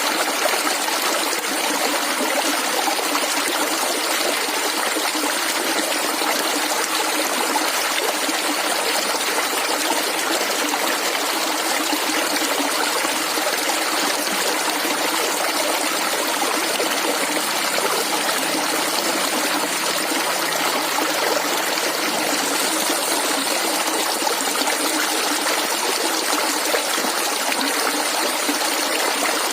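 A stream of clear water flowing and gurgling in a steady rush.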